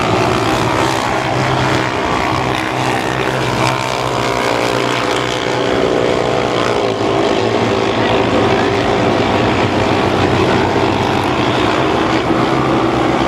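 Mini sprint race car engines running at high revs, several at once, the pitch rising and falling as the cars go by.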